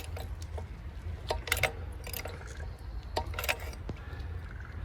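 Short metallic clicks and clinks, in a few scattered groups, from a homemade pipe-and-jack press as it is loaded further against a propeller hub.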